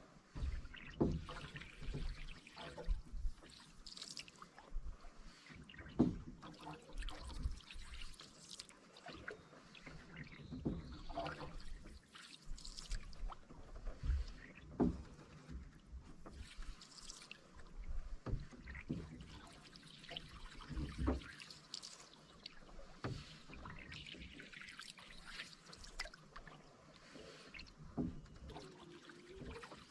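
Canoe being paddled through calm water: paddle strokes dipping and splashing every second or two, with drips and occasional light knocks.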